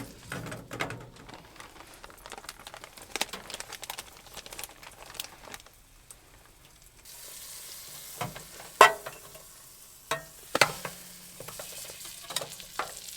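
Bannock dough frying in butter in a pan, with a utensil scraping and tapping against the pan. A steady sizzle sets in about halfway through, broken by a few sharp knocks of the utensil.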